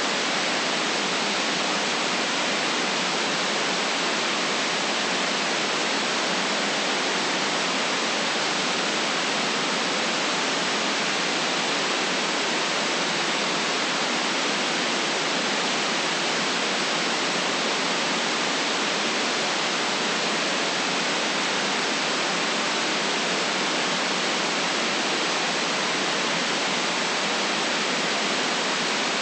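Steady white noise: an even, unchanging hiss with the deep bass cut away.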